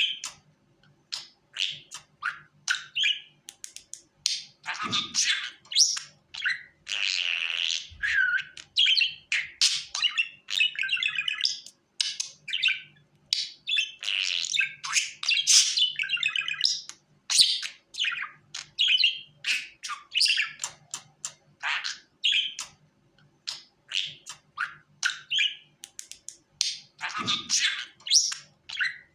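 Budgerigar chirping and warbling in quick, busy bursts of high chirps, chatter and trills with short pauses between them.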